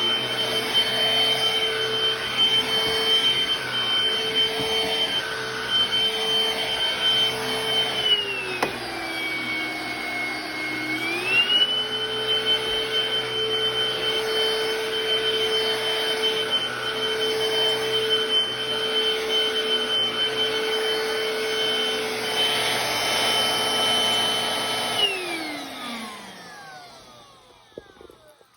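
BLACK+DECKER POWERSERIES+ 16V MAX cordless stick vacuum running with a steady motor whine. About a third of the way in, the motor slows to a lower pitch for a few seconds, then speeds back up. Near the end it switches off and winds down, its whine falling in pitch until it stops.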